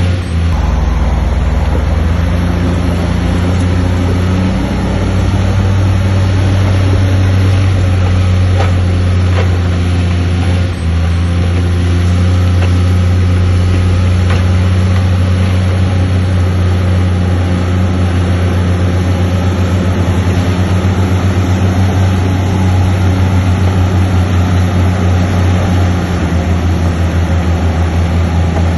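Bulldozer's diesel engine running steadily, with a few brief sharp knocks. A little past halfway the engine note takes on a fast, even pulsing.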